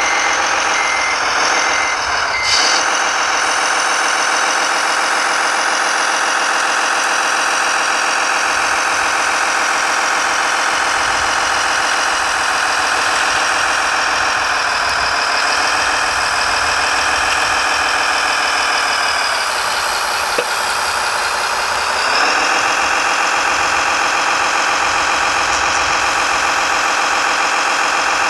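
Radio-controlled construction machine model running with a steady engine sound that dips briefly and comes back up about two-thirds through. A reversing beeper sounds for the first two seconds or so.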